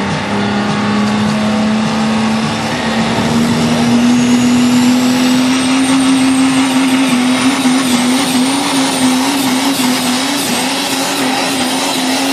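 1996 Dodge pulling truck's 5.9-litre 12-valve Cummins diesel with compound (stacked twin) Garrett turbos running hard and loud, its note climbing slowly. A high turbo whistle rises about a third of the way in and then holds as the turbos spool up.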